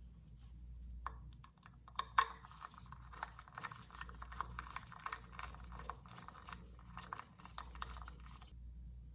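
Rapid, irregular small clicks and ticks of hand work on small metal parts, with a steady low hum underneath.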